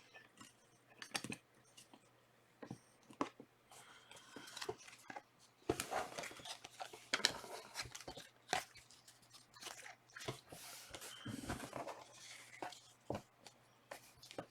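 Trading cards and their foil pack wrappers being handled: irregular rustling, crinkling and light clicks as cards are slid and shuffled through the hands.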